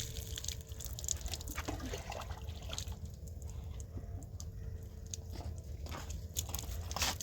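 Irregular crunching and crackling, short dry clicks scattered through, over a steady low rumble.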